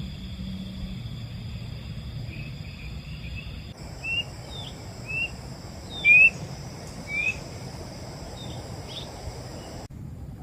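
A bird calls four times with short rising chirps about a second apart, over a steady high drone of insects and a low steady background noise. The insect drone changes abruptly near four seconds and again near the end.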